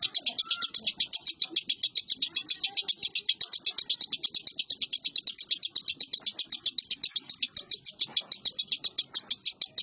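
Lovebird giving its 'ngekek' song: a long unbroken chatter of rapid high chirps, about seven or eight a second, kept up without a pause.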